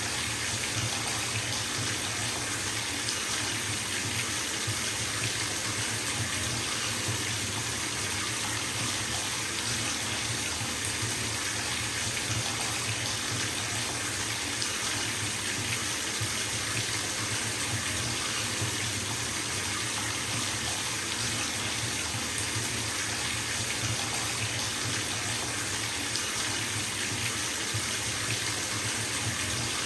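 Bathtub filling from a running tap: a steady stream of water pouring into the tub, an even rushing splash that does not change.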